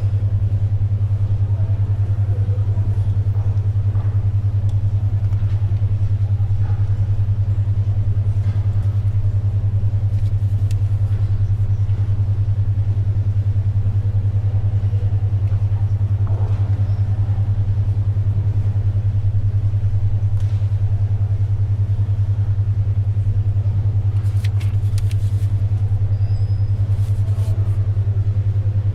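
Steady low hum of a 10.2 Hz alpha-wave brainwave tone, pulsing rapidly, over faint library ambience with occasional small rustles and scratches of paper and pencil, a cluster of them near the end.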